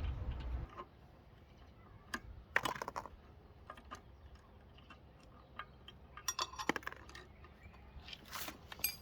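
Scattered light metallic clicks and clinks of tools and small parts being handled while the minibike is being dismantled, with a few louder clatters about two and a half seconds in and around six and a half seconds in.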